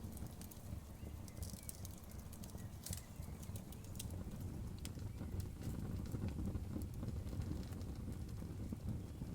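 Campfire crackling with scattered sharp pops, busiest a second or two in, over a steady low rushing of river water.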